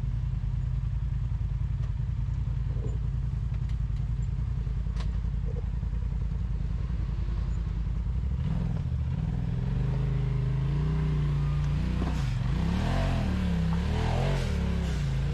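Off-road rig's engine idling with a steady low throb, then revving up and down repeatedly from about eight seconds in as it works over the rocks. A faint knock about five seconds in.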